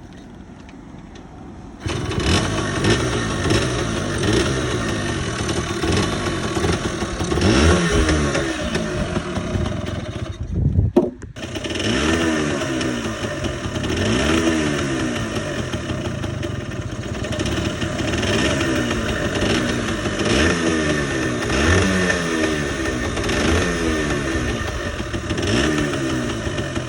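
Yamaha Pocke 4U1's 50cc two-stroke single-cylinder engine catching about two seconds in, then running with repeated throttle blips, its pitch rising and falling. It briefly cuts out about eleven seconds in and picks up again.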